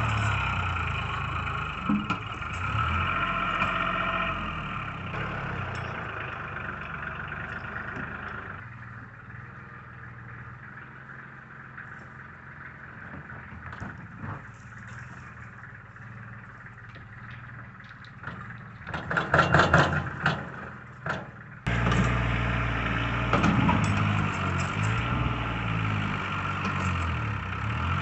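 Tractor engine running, quieter through the middle stretch, with a burst of loud clattering about two-thirds of the way through, then an abrupt jump back to louder running.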